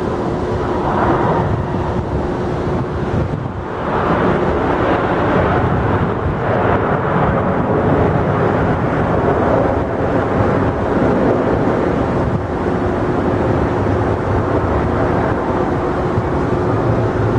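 Jet airliner engines running, a loud steady rush of noise with a constant hum underneath and a short dip about three and a half seconds in.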